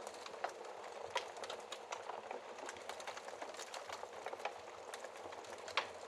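Wood fire burning in a fireplace, crackling steadily with dense small snaps and a few louder pops: about half a second in, just after a second, and near the end.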